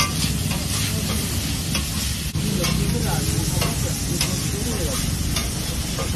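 Chicken pieces sizzling on a large flat metal griddle (tawa) while a slotted metal spatula scrapes and taps across the hot plate, stirring them about every half second, over a steady low rumble.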